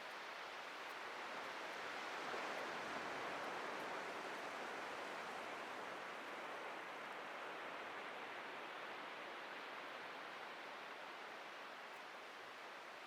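Ocean surf washing on a beach: a steady hiss of breaking waves that swells about two seconds in and then slowly eases off.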